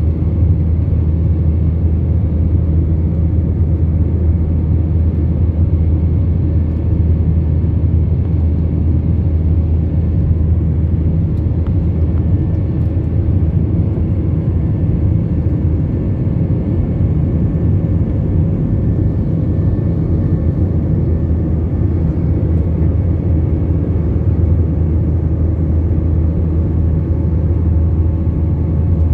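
Steady low rumble inside an Airbus A321 airliner's cabin: jet engines and airflow running evenly, with no change in level.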